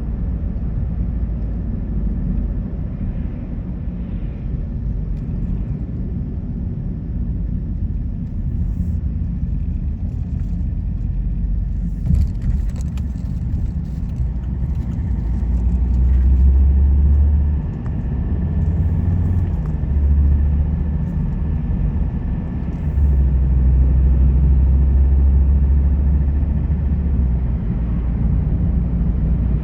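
Car driving along a road: steady deep road and engine rumble, swelling louder in several stretches past the middle, with a brief click a little before the middle.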